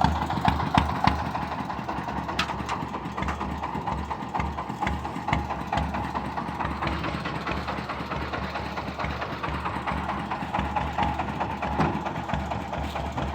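Truck engine idling with a steady low pulsing rumble, with a few light clicks and knocks in the first seconds.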